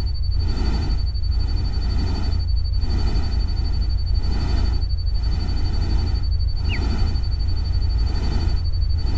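Loud, continuous rain-and-water noise from a relaxation soundtrack, with a heavy low rumble. It swells and dips about every second and a quarter over a steady thin high tone, and a single short falling chirp comes about seven seconds in.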